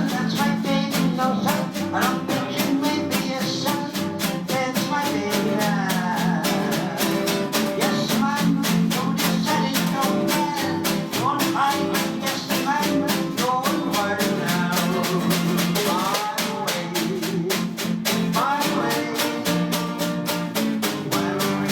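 Jazz music: a drum kit keeps a quick, steady beat of about four strokes a second, with a melody line over it.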